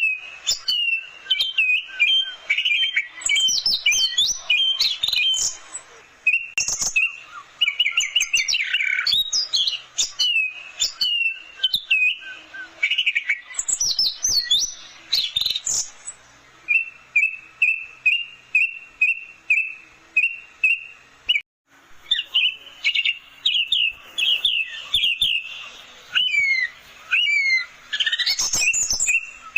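Orange-headed thrush (anis merah) singing a fast, varied song of short whistled and chirped phrases, with a run of quick repeated notes in the middle. The song breaks off briefly about two-thirds of the way through.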